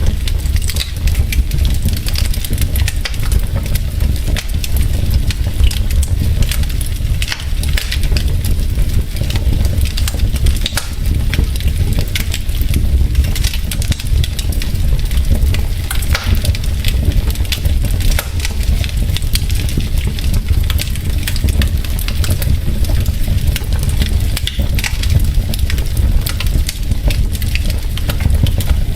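Wood fire burning in a fireplace: logs crackling with many quick, irregular pops over a steady low rumble of the flames.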